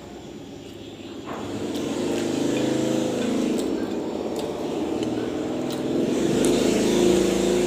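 A motor vehicle engine running nearby, swelling in loudness over the first couple of seconds and again near the end, with faint clicks over it.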